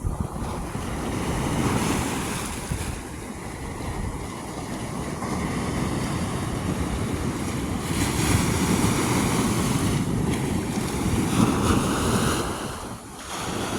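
Ocean surf washing onto a beach, with wind buffeting the microphone. The sound is a continuous rushing noise that dips briefly near the end.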